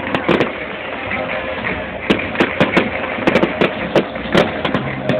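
Fireworks display bursting: a run of sharp bangs and cracks at irregular intervals, several a second at times, over music playing alongside. Recorded on a mobile phone, so the sound is thin and harsh.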